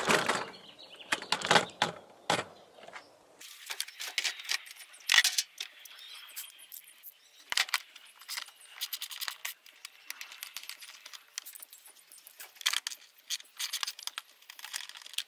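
Irregular metallic clicking and clinking of hand tools and small fasteners being handled while the seat is unbolted from a dirt bike to reach the air filter.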